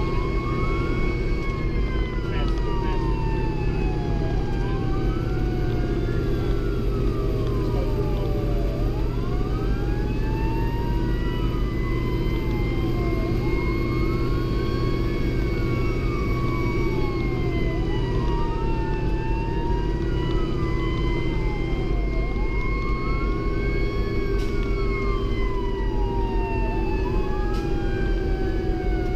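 Fire engine sirens sounding while responding: a wail rising and falling about every four to five seconds, over a second siren tone that drifts up and down more slowly, with steady engine and road rumble underneath.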